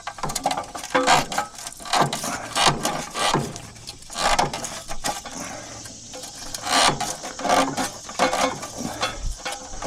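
Irregular metallic clicking and scraping of hand tools working on the outdoor unit's wiring, loosening the ground wire connection.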